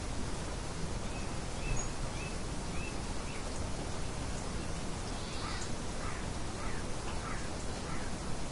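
Steady wind-like hiss with small birds chirping over it: a few short chirps in the first few seconds, then a quicker cluster of chirps from about halfway through.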